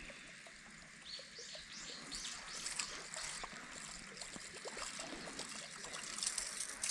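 Small birds chirping, a run of quick falling high notes repeated over and over, with light splashing of water underneath.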